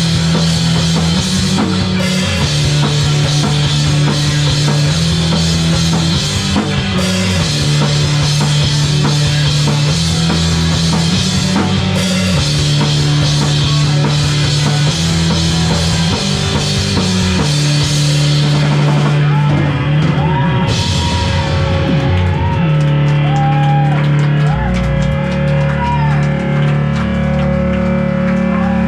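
Live rock band playing loudly: drum kit, electric guitar and bass guitar. About two-thirds of the way through the drums drop out, leaving the bass line under a held guitar note and a wavering, bending guitar line.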